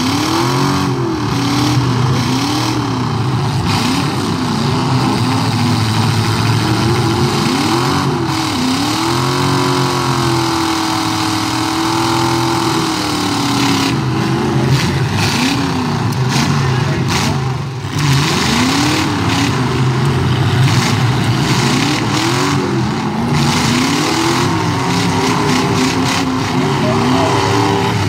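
Demolition derby truck engines revving hard over and over, each rev rising and falling in pitch, with one rev held high for a few seconds about nine seconds in.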